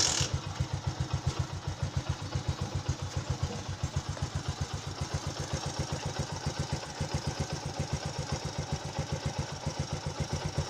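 Motorcycle engine idling steadily with an even, fast exhaust beat, just after starting on a single kick; there is a brief louder burst right at the start. The spark plug has been regapped to cure hard starting.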